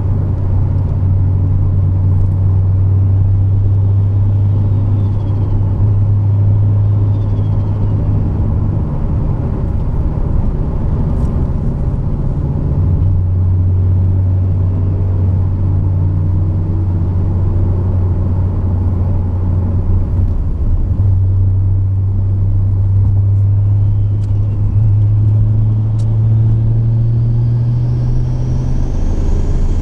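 Car engine droning steadily at a cruise, with road rumble. The pitch shifts a little a few times, creeps up near the end and then drops away.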